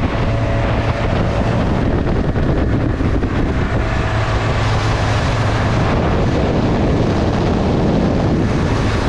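Bayliner Capri boat's engine running steadily at cruising speed, about 25 mph, a constant low hum under heavy wind buffeting on the microphone.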